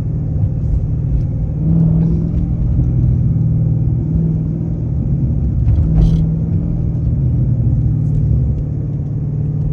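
Dodge Hellcat's supercharged V8 running as the car drives, a steady low rumble that swells a little about two seconds in and again around six seconds, with one sharp click near six seconds.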